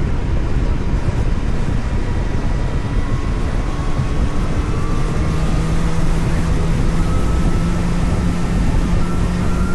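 Vehicle engine running while driving, under steady road and wind rumble; from about halfway through the engine note rises slowly as it picks up speed.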